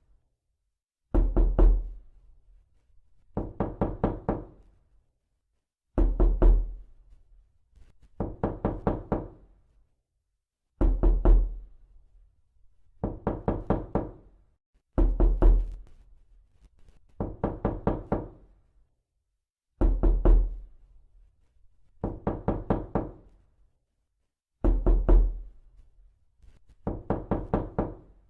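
Knocking on a door: a rapid run of raps about every two and a half seconds, each run fading over about a second. Every other run hits harder, with a deeper thud.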